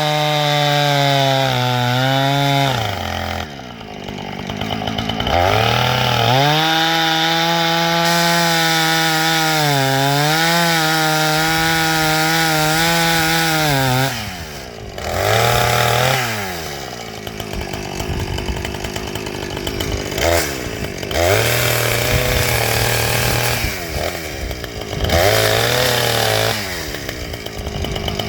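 Two-stroke chainsaw running at high revs and cutting wood, its pitch sagging as the chain bogs in the cut and rising again. It drops briefly toward idle about 3 and 14 seconds in, then runs in shorter bursts of revving.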